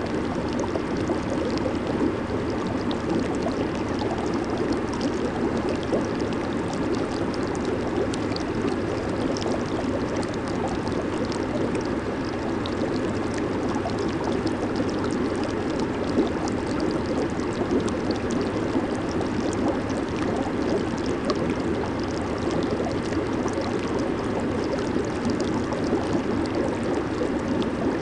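Hot tub (jacuzzi) jets churning and bubbling the water, a steady, even rush of gurgling water with a fine fizz of popping bubbles.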